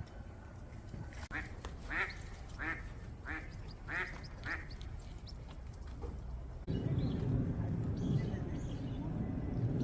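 A duck, most likely an eastern spot-billed duck, quacking about six times in an even series. A few seconds later, wind buffeting on the microphone sets in as a low rumble and stays to the end.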